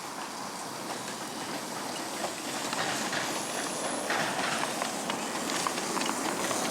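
Miniature railway train running on its track, growing steadily louder as it comes closer, with scattered light clicks.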